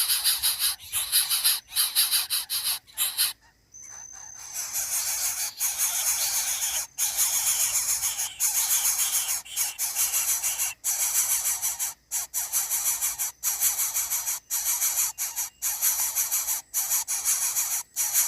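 Dense insect chorus: a steady high hiss, broken by many brief dropouts and a short gap about three and a half seconds in.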